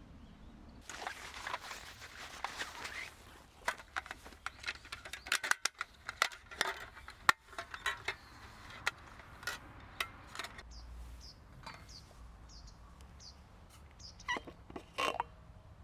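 A rustle, then a run of sharp clicks and knocks from objects being handled, the loudest about seven seconds in. Short high bird chirps sound through the second half.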